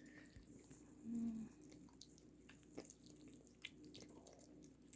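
Faint, scattered clicks of a cat chewing its food, with a brief low hum about a second in.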